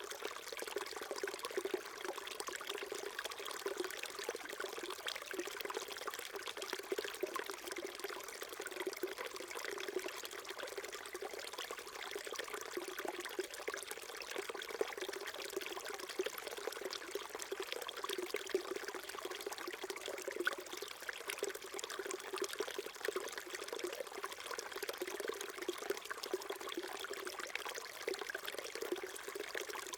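Small stream trickling and gurgling over stones, a steady babble of water.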